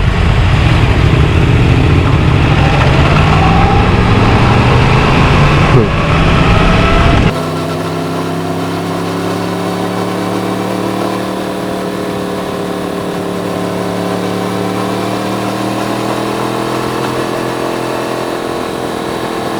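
Yamaha MT-10's crossplane inline-four engine under way, rising in pitch under heavy wind rush for about seven seconds. Then the rush drops away suddenly and the engine holds a steady, even note.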